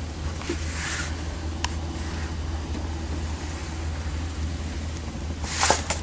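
Paper brochures being handled and shuffled, with brief rustles about a second in and again near the end and one small click, over a steady low hum.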